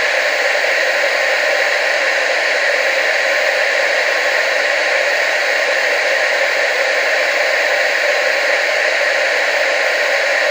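TV static: a steady, unbroken hiss with no low end, strongest in the middle and upper range.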